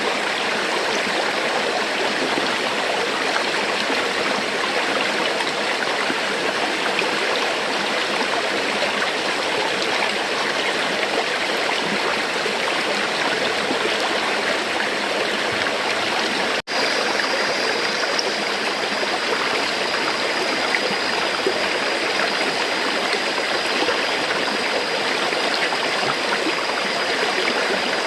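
River water flowing in a steady, even rush. The sound drops out for an instant about two-thirds of the way through, then carries on unchanged, with a faint steady high tone above it afterwards.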